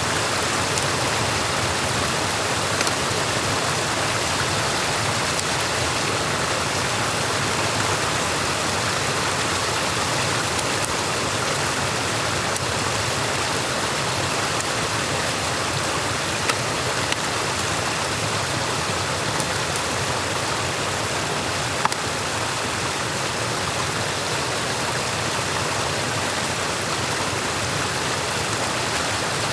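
Stream water rushing steadily, as at a beaver dam being opened up, with a few faint small knocks past the middle.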